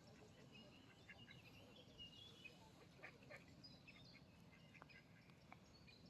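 Ducks calling faintly, with many scattered short calls and chirps over low background noise.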